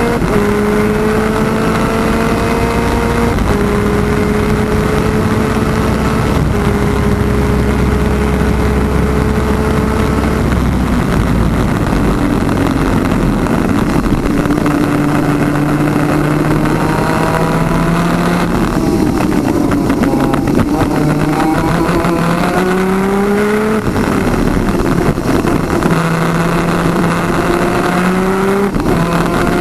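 Twin-cylinder 250cc two-stroke superkart engine at racing speed, with strong wind rush. The pitch climbs and drops back in steps as the kart shifts up through the gears, falls away as it slows for a corner about two-thirds of the way through, then climbs through the gears again.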